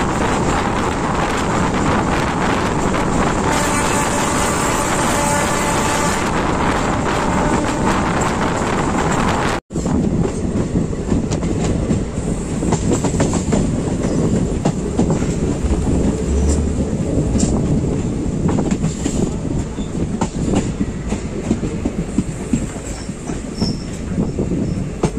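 Passenger DMU train running at speed, wheels rumbling and clattering over the rail joints. A horn sounds steadily for about two and a half seconds a few seconds in. The sound cuts out for an instant near the middle, then the rumble and clatter carry on.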